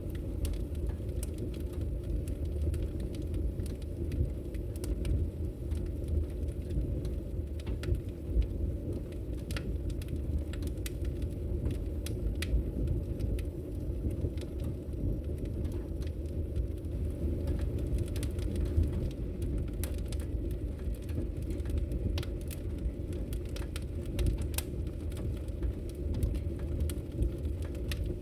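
Wood logs burning in a fireplace, crackling with irregular sharp pops and snaps over a steady low rumble.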